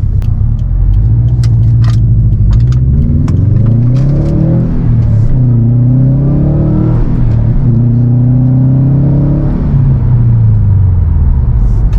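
2018 Subaru WRX STI Type RA's turbocharged flat-four pulling through the gears: the revs climb, drop at two upshifts about five and seven seconds in, climb again, then sink near the end. A few sharp clicks in the first couple of seconds.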